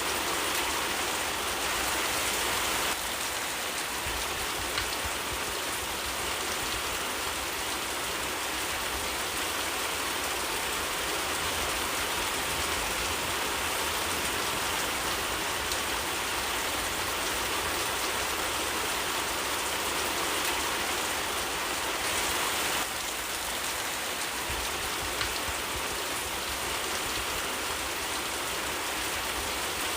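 Steady rain falling in a forest, a dense even hiss of countless drops. It dips slightly in level about three seconds in and again near the end.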